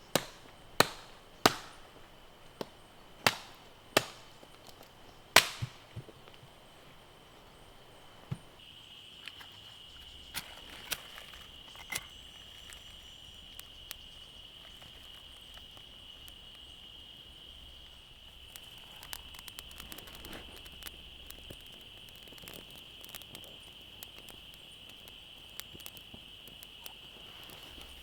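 Wood being chopped with a blade: about six sharp blows in the first six seconds, then a few scattered knocks and, later, light irregular ticking. A steady thin high-pitched tone sits underneath throughout.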